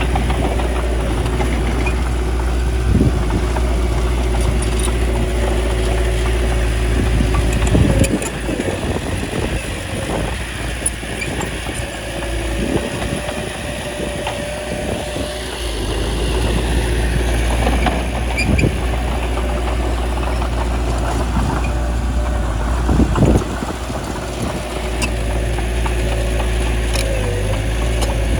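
Small bulldozer's diesel engine running steadily, its low note easing off for several seconds about eight seconds in before coming back, with a few sharp clanks at intervals.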